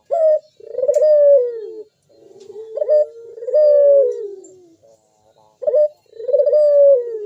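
Local puter dove (Barbary dove) cooing in repeated phrases: a short, sharp rising note, then a long falling coo, three times over. Its loud, full voice is what lures other puter doves to coo along.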